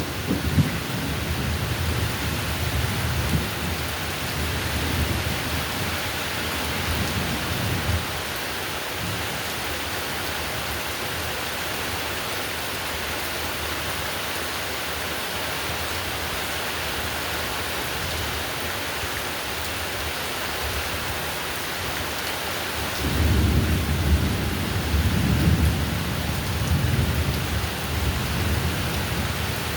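Heavy rain falling steadily, with rolling thunder rumbling in the first several seconds, dying away, then rumbling again about two-thirds of the way through.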